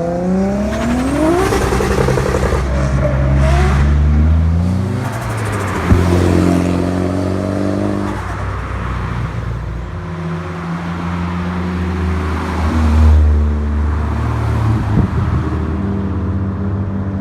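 Car engine revving hard, the revs climbing in the first second or so, held high, then falling back to a lower steady run. There is a single sharp crack about six seconds in.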